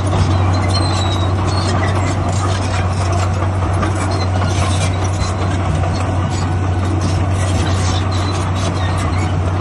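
Heavy diesel earthmoving machinery running steadily with a continuous low engine drone.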